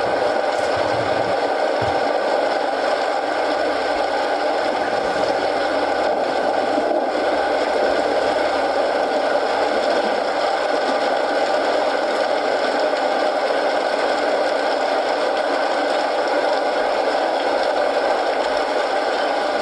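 Steady rain with a wood fire crackling in a fireplace.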